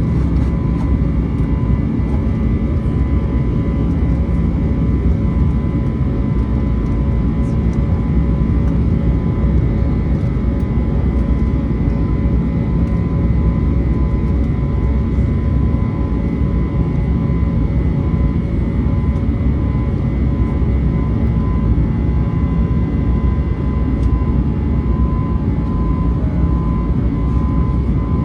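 Steady cabin noise of an Airbus A321neo in flight: a constant low rumble of its two turbofan engines and the airflow, with faint steady whining tones above it.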